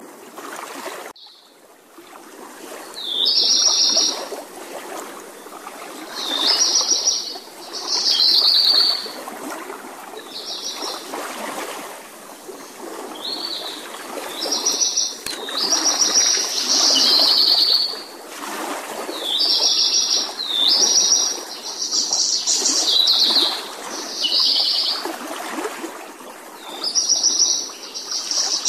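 Repeated short, high bird calls, a phrase every second or two, over water splashing as koi churn at the pond's surface.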